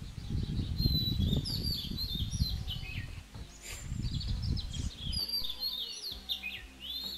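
Songbirds singing: many quick, high, falling chirps, over and over. Under them a low rumbling noise on the microphone dies away after about five seconds.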